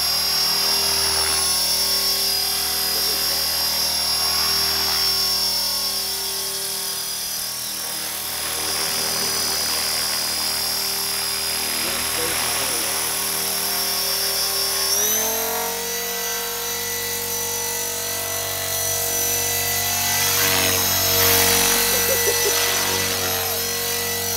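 Blade 450 3D electric RC helicopter in flight, its motor and rotor whining steadily. About fifteen seconds in, the pitch steps up and holds higher.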